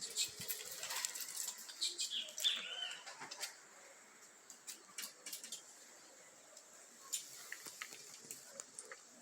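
Faint high bird chirps with many short sharp clicks, busiest in the first three seconds and thinning out after.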